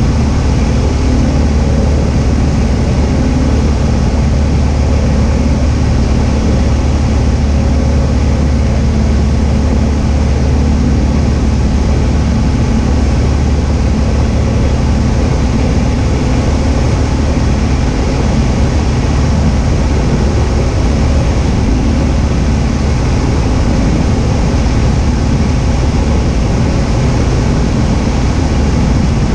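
Cessna 172H's Continental O-300 six-cylinder piston engine and propeller in flight, a steady, even drone that does not change.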